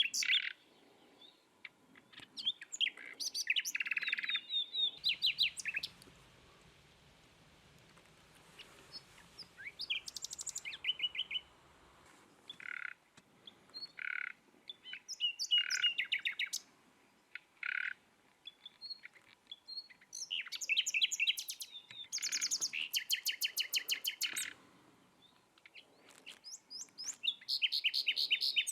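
Songbirds singing outdoors: repeated phrases of rapid, high-pitched trilled notes, with short pauses between them.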